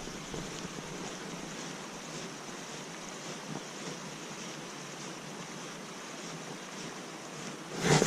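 Steady rush of creek water flowing over riffles, with a brief louder noise at the very end.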